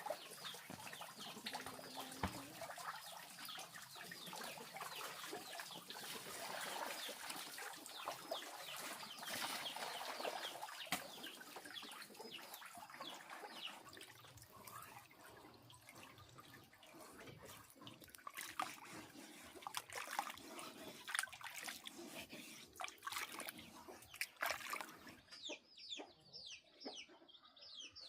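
Chickens clucking, with many short, high, falling calls that come thicker near the end.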